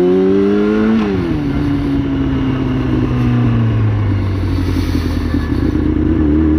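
Motorcycle engine heard while riding: it pulls up in pitch, drops sharply about a second in as it shifts up a gear, then settles and slowly eases off at a steady cruise, over a steady rush of road and wind noise.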